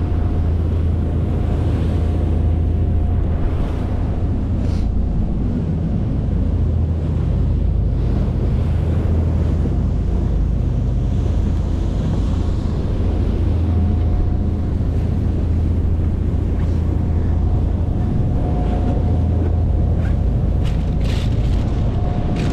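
Fishing boat's engine running at a steady low drone while underway, with water rushing past the hull and wind on the microphone.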